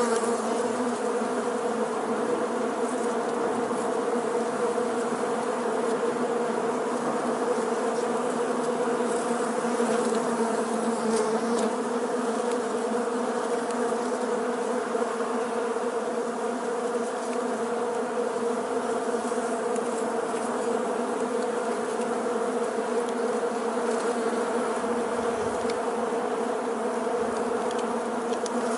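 Loud, steady buzzing of a swarm of bees in flight, one even drone that holds unbroken throughout.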